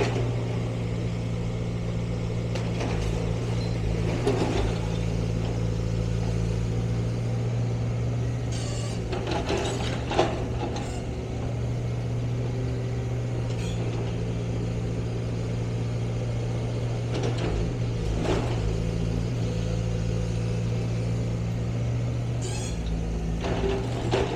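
An engine running steadily, with several short sharp knocks and clatters over it, the loudest about ten seconds in.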